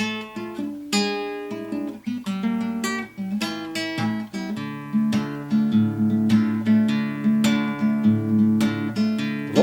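Acoustic guitar playing an instrumental passage of a song, strumming chords in a steady rhythm.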